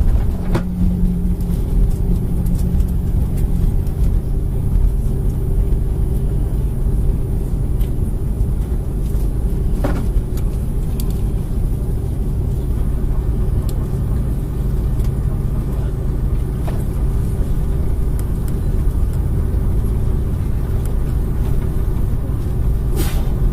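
Airbus A330-300 cabin noise: a steady, loud low rumble from the engines and airframe, with a few brief knocks.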